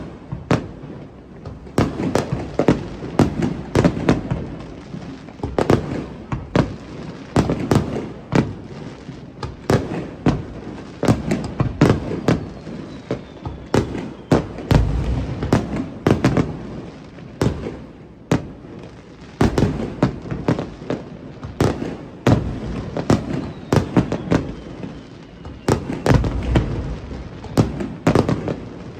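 Fireworks display: aerial shells bursting in a dense, continuous barrage of bangs and booms, several a second, with crackling between them.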